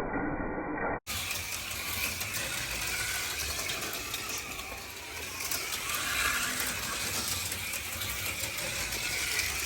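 HO-scale slot cars running laps on a plastic track: small electric motors whirring with a mechanical rattle of the cars on the track. There is a brief dropout about a second in, after which the sound is brighter.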